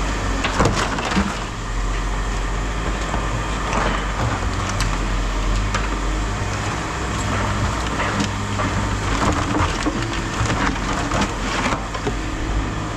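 Scrap metal clanking and scraping as a stuck load is worked loose from a bin, over the steady hum of an idling engine.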